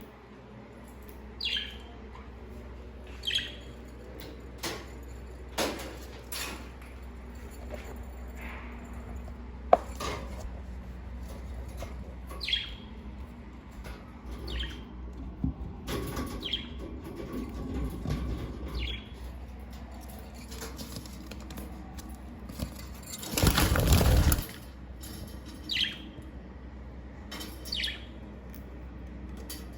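Budgerigars giving short, falling chirps every few seconds, with a loud burst of wing flapping lasting about a second roughly three quarters of the way in. Scattered light clicks and a steady low hum sit underneath.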